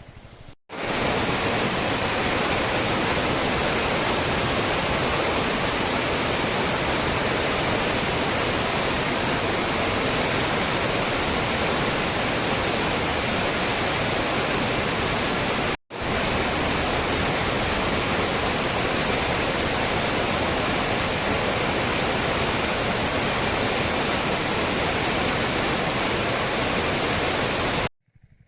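Water rushing steadily at the Pykara dam, a loud, even rush with no rhythm. It breaks off abruptly in the middle and again near the end.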